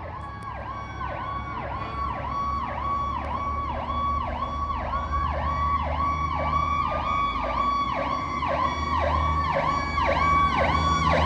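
Fire apparatus sirens on a fast yelp, about two sweeps a second, with a slower rising and falling wail joining about halfway through, over the low rumble of the trucks' engines. The sound grows steadily louder as the trucks approach.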